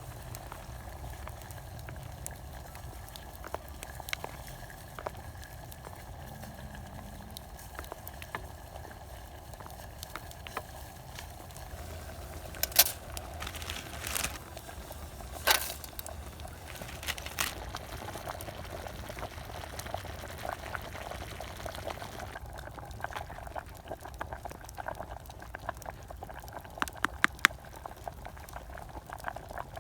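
Salmon cream stew bubbling steadily in a hangō mess tin over a campfire, with a few sharp clicks and pops partway through.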